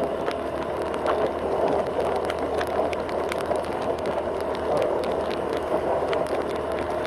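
Motorcycle riding along a road: steady engine and road noise, with scattered light ticks throughout.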